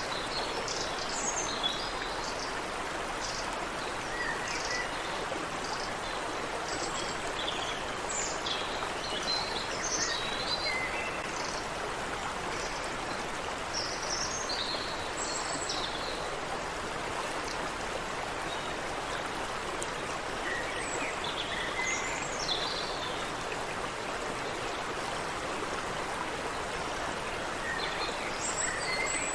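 Creek water running steadily, with small birds chirping on and off above it: many short chirps in the first ten seconds or so, a few more around the middle, and again near the end.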